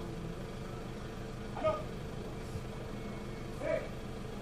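A parked police car's engine idling with a steady hum. Two short calls come through, about two seconds apart, the second near the end.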